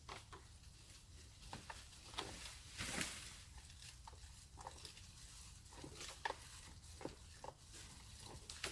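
Irregular light crackles and rustles, a few at a time, with a louder crackle about three seconds in.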